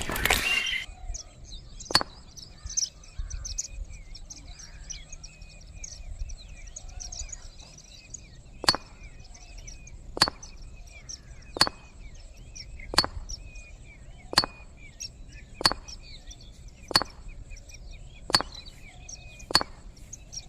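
Small birds chirping continuously. About halfway through, a sharp knock starts repeating about every second and a half.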